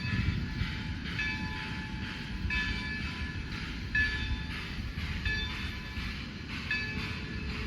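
Excursion train's locomotive bell ringing about once every second and a bit over the low rumble of the train rolling past.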